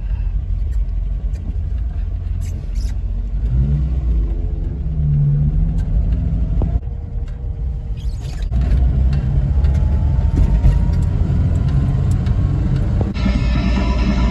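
Car engine and road rumble heard from inside the cabin while driving, the engine note rising as the car accelerates about four seconds in. Music comes in near the end.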